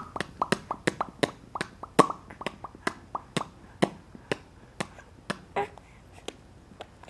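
A baby making soft popping noises with her lips: a quick run of pops, about three a second, each dropping slightly in pitch, thinning out in the last second or so. The parent takes them for mimicry of the parent's own popping noises, or for an attempt at saying "Mama".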